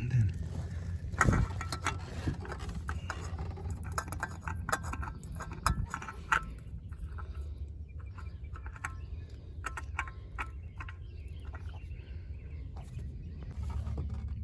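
Scattered light clicks and taps of hand work on the car's underside during an oil filter change, over a steady low hum. The strongest knocks come about a second in and near the middle.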